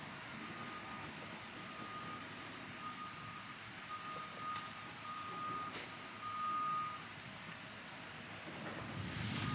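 A vehicle's reversing alarm beeping in a steady single tone, about once a second, stopping about seven seconds in.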